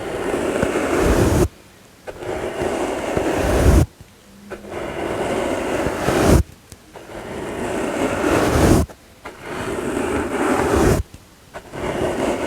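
Soft brush swept in long strokes, about five of them, each a two-second rushing swish that grows louder and then stops abruptly, with a short pause between strokes.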